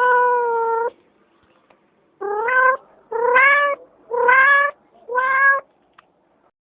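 Domestic cat meowing five times: one long meow, then after a pause four shorter meows in a row, each rising in pitch at the start.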